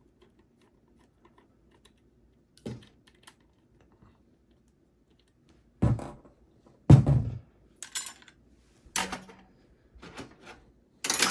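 Clunks and knocks from a desktop hard drive and the PC's metal drive cage being handled. Faint clicks come first, then from about halfway a run of six sharper knocks about a second apart, the second of them the loudest.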